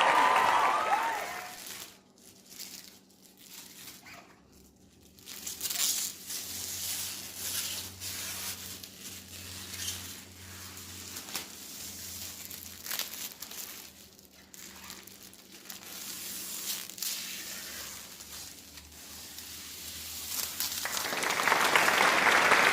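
Vinyl wrap film crinkling and crackling as it is handled, in irregular bursts, over a faint low hum.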